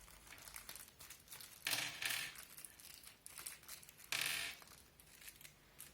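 Crinkling and rustling of plastic packaging being handled, with two louder crinkles about two and four seconds in.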